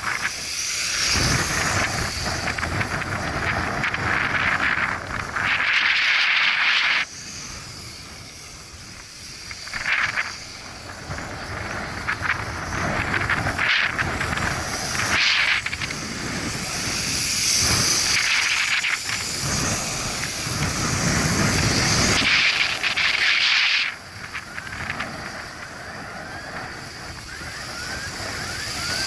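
U807 RC aircraft's small electric motors whining, their pitch and loudness swelling and falling as it is flown against gusty wind, with wind buffeting the microphone underneath. The whine rises in short glides near the end.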